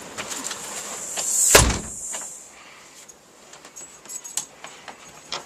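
Outside door opened onto a blizzard: a rush of wind noise swells into a loud thump about a second and a half in. Afterwards it is quieter, with scattered light jingling clicks.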